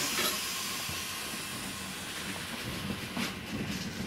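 Local train pulling away from a station, heard from inside the car: a hiss that fades over the first seconds, then faint wheel clicks over the rail joints beginning about three seconds in as it gathers speed.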